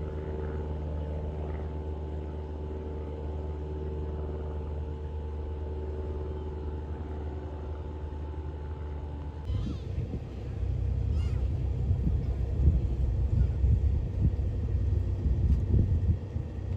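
A light aircraft's piston engine running steadily. About nine and a half seconds in the sound changes abruptly to a louder, uneven low rumble that rises and falls in gusts.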